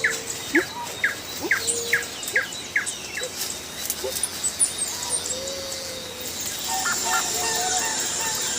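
Forest birds calling: a run of short, falling whistled notes about two a second for the first three seconds, then scattered other calls, over a steady high hiss that grows louder near the end.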